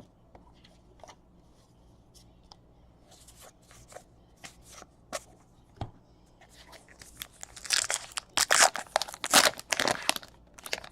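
Faint scattered clicks and taps of trading cards being handled, then from about seven seconds in a loud run of crinkling and tearing as a baseball card pack wrapper is ripped open and crumpled.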